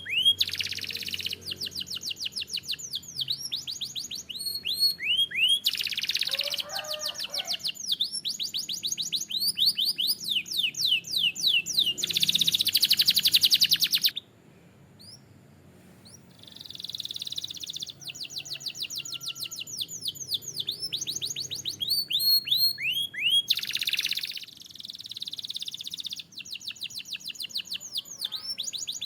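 A canary singing: fast trills of rapidly repeated high notes mixed with upswept chirps and dense rolls. The song breaks off about halfway through and resumes a couple of seconds later.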